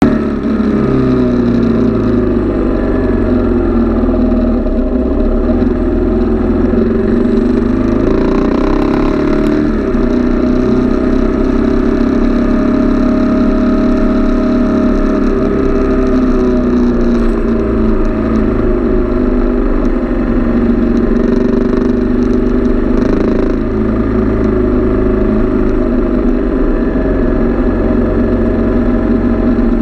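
Sport motorcycle engine running at speed, its pitch rising and falling several times with throttle and gear changes, over a steady rush of noise.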